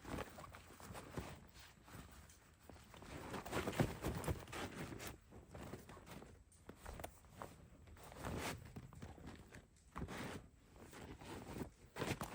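Footsteps crunching in snow, uneven and irregular, with some rustling between steps.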